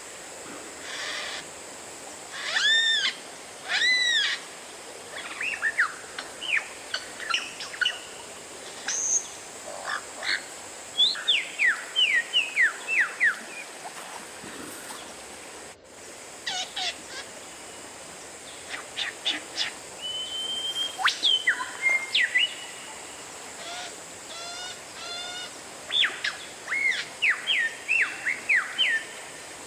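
Oriental magpie-robin (kacer) singing: loud arching whistles, runs of quick falling whistled notes and sharp chirps, in short varied phrases separated by pauses. A brief dropout about halfway through.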